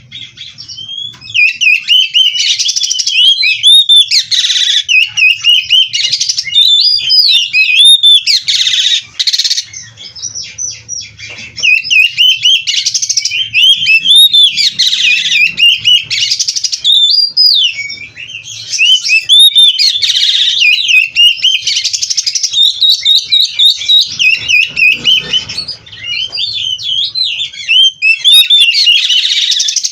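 Oriental magpie-robin (kacer) singing loudly and almost without a break: a fast, varied run of whistles, trills and chattering phrases, the full mixed song a bird-keeper wants from a kacer in top form. The song pauses briefly a few times.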